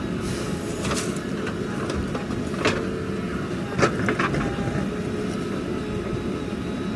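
Heavy machinery's diesel engine running steadily, with several sharp knocks; the loudest comes about four seconds in.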